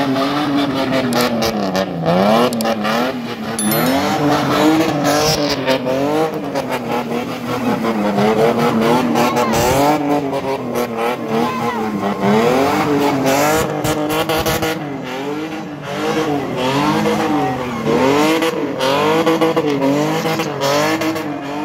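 BMW E30 sedan spinning donuts: its engine revs hard, the pitch rising and falling over and over as the driver works the throttle, with tyre screech from the spinning rear wheels.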